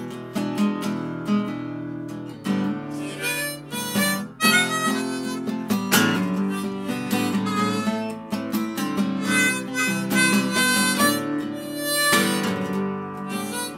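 Instrumental break in a song: harmonica playing a melody over strummed acoustic guitar.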